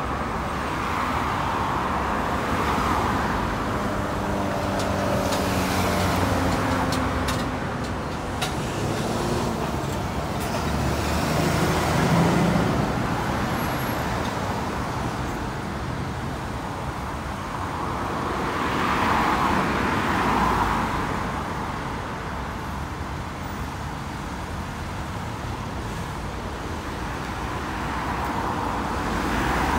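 Road traffic going past: vehicles drive by one after another, their tyre noise swelling and fading with each pass, over a steady traffic hum. An engine's steady hum sits under the first half.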